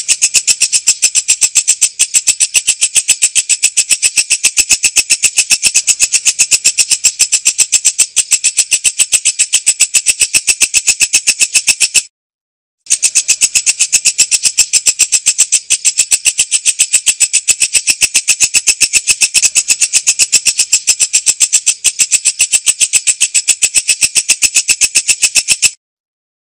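Walang kecek insect singing: a loud, steady, rapid high-pitched rasping trill of fast even clicks. It breaks off for under a second about halfway through and stops again near the end.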